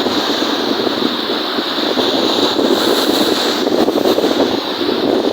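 Wind-driven waves washing on a lake, mixed with wind buffeting the microphone, as one steady rushing noise.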